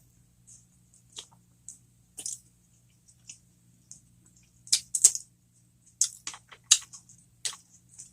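Close-miked chewing of a breadcrumb-topped cheeseburger jalapeño popper: irregular sharp, crisp mouth clicks and crunches, sparse at first and coming thick and fast in the second half.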